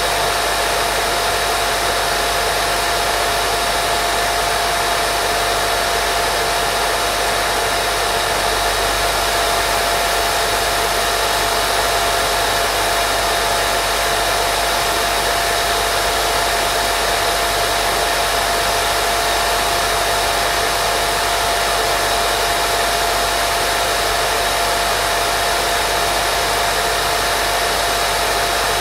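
Steady white noise for baby sleep: an even, unchanging hiss with a steady mid-pitched hum running through it.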